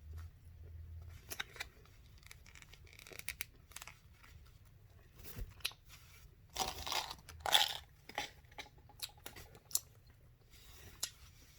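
Chewing a stick of strawberry gum close to the microphone: scattered wet mouth clicks and smacks, with a louder stretch of crackly noise a little past the middle.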